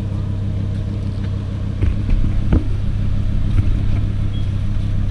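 Lamborghini Huracán's V10 engine with Fi Exhaust running steadily at a low, even drone, with no revving, and a few faint clicks.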